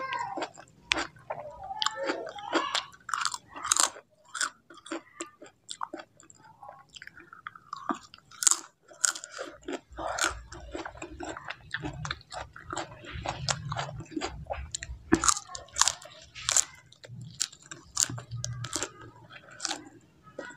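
Close-miked chewing of a mouthful of food, with frequent crisp crunches and wet mouth clicks in an irregular run.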